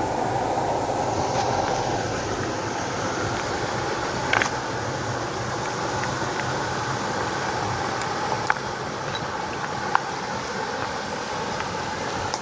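Flowing water rushing steadily, with a few brief sharp ticks, like drops or small splashes, about four, eight and a half and ten seconds in.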